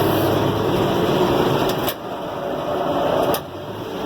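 New Holland 1400 combine running while harvesting soybeans, heard from inside the closed cab as a steady mechanical din with a constant hum. The loudness drops suddenly twice, about two seconds in and again near the end, each time with a sharp click, then builds back up.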